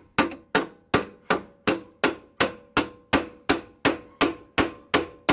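Hammer blows on metal in a steady rhythm, about three a second, each with a short metallic ring, as an engine-mount bush is hammered out or in by hand.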